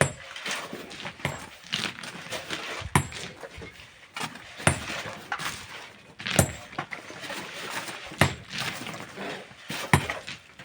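Hand tools working rock and sand: sharp metallic clinks of steel striking stone about every two seconds, with gritty scraping between the strikes.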